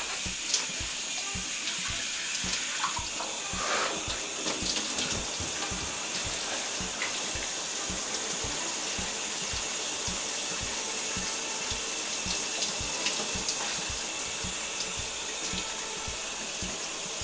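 Shower running: a steady hiss of water spraying.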